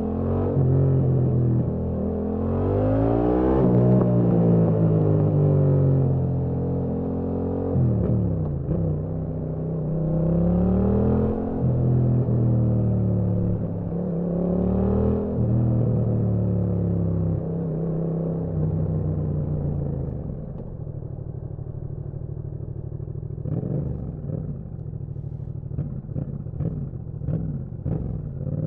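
Yamaha MT-07's parallel-twin engine pulling through the gears, its revs rising and dropping again and again as it shifts. After about twenty seconds it settles to lower, steadier running, with a series of short crackles near the end.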